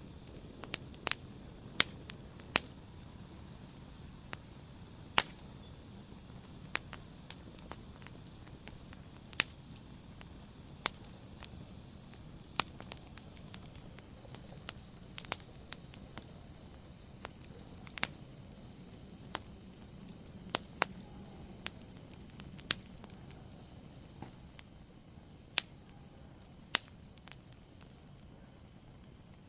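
Wood fire burning in a fireplace, with irregular sharp crackles and pops from the logs over a soft low rumble of the flames.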